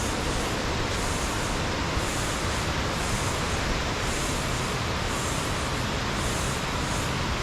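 Steady rushing of a waterfall, an even roar of falling water, with a faint high pulsing about once a second.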